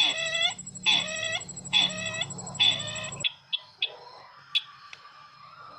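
Sisintar bird call used as a trapping lure: four loud calls, each about half a second long and about a second apart. The calls and the background hum stop abruptly a little past three seconds in, and a few faint clicks and one sharp tick follow.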